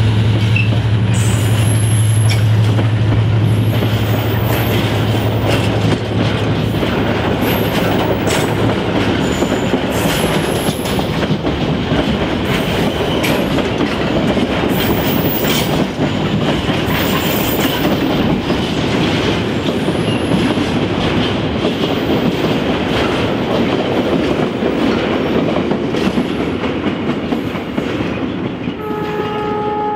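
Empty timber wagons of a freight train rolling past, wheels clattering over rail joints with brief high wheel squeals. The low drone of the hauling CIE 071 class locomotive's EMD diesel engine fades over the first several seconds. A train horn sounds near the end.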